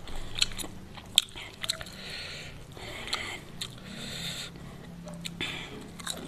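Close-up chewing and crunching of crispy fried chicken, with irregular sharp crunches between softer chewing.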